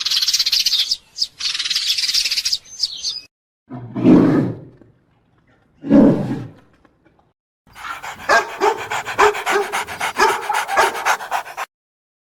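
A succession of animal calls: harsh, high calls in the first three seconds, two short deep calls around four and six seconds in, then a run of rapid, pulsing calls that stops shortly before the end.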